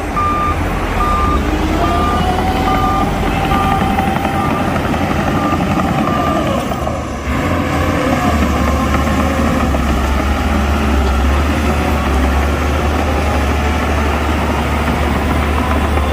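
Heavy diesel earthmoving machinery running, with a reversing alarm beeping about one and a half times a second that fades out after about six seconds. There is a brief break about seven seconds in, then the engines run on steadily.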